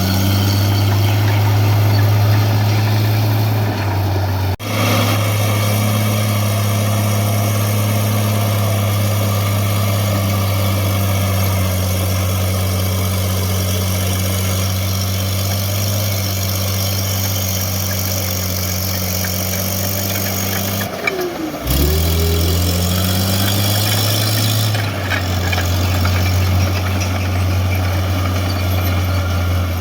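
A heavy vehicle's engine running at a steady pitch, with a sharp break about four and a half seconds in; about two-thirds of the way through it drops away and climbs back up to the same steady note.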